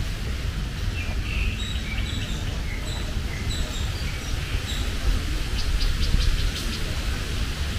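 Small birds chirping and calling in scattered short high notes, with a quick run of rapid high pips about six seconds in, over a steady low rumble.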